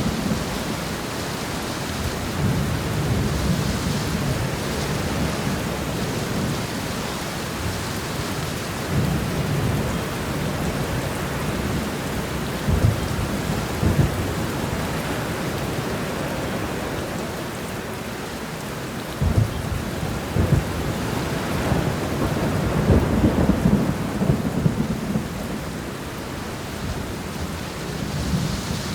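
Steady rain shower hiss, with low rumbling that swells and fades several times and a few sharper low thumps around the middle and later on.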